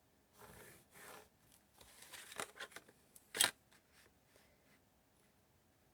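Cardstock being handled and re-scored: rustling, scraping strokes, then a run of small clicks and one sharp click about three and a half seconds in.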